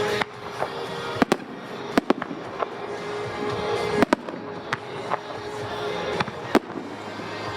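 Fireworks shells bursting in a string of sharp, irregularly spaced bangs, some in quick pairs, over a steady background hiss.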